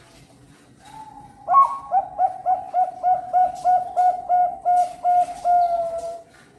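Perkutut bangkok (zebra dove) singing its cooing song: a soft opening note, then a fast, even run of about a dozen short coos, about three a second, closing on a longer drawn-out note.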